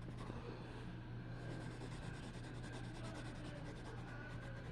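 Drawing tool rubbing and scratching on paper in quick, light strokes while colouring in, over a steady low hum.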